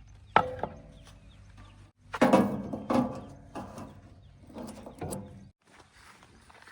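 JCB 3DX backhoe loader working: a diesel engine running low, with a sharp knock about a third of a second in and a loud cluster of clanks and knocks around two to three seconds in, then a few more near five seconds.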